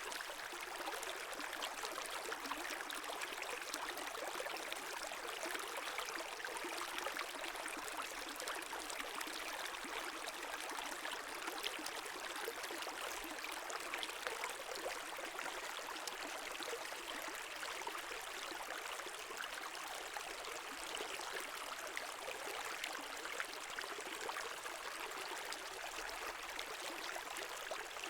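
A small brook flowing, its water babbling and trickling steadily over stones.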